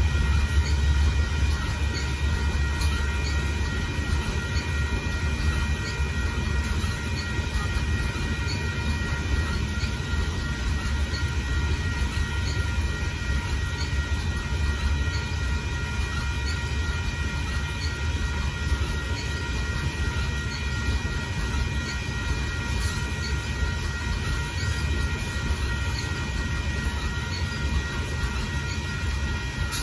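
Loaded open hopper cars of a Union Pacific limestone train rolling steadily past: a continuous low rumble of steel wheels on the rails, with faint steady high tones over it.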